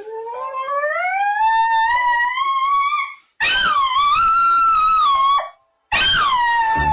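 A dog howling in long drawn-out calls: the first rises slowly in pitch over about three seconds, the second holds a steady pitch, and the third falls. Each call breaks off abruptly.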